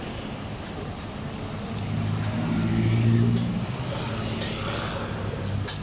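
A motor vehicle engine passing close by, its steady hum swelling to a peak about three seconds in and then easing, over continuous street noise.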